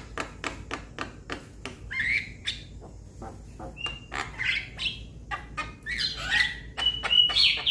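Young black-winged starlings (jalak kebo) calling: a rapid series of sharp clicks mixed with short whistled and squawky notes, louder near the end.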